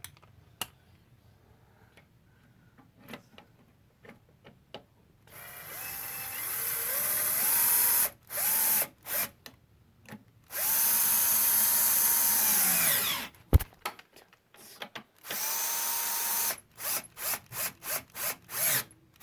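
Power drill driving the carburetor's 8 mm mounting bolts back in. It runs in bursts that climb in pitch as it speeds up, with one longer run that winds down and a sharp knock after it. Near the end it gives a string of short quick pulses.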